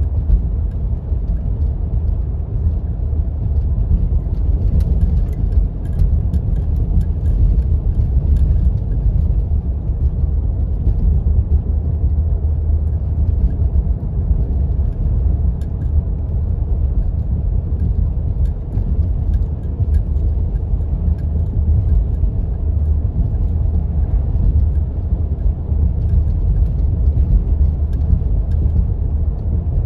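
Steady low rumble of a 4x4 driving on snow-covered roads: engine and tyre noise, running evenly throughout.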